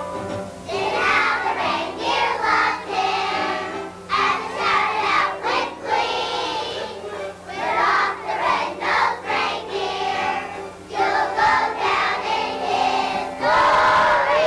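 Children's choir singing a song with instrumental accompaniment, in phrases separated by short breaths, closing on a long held note near the end.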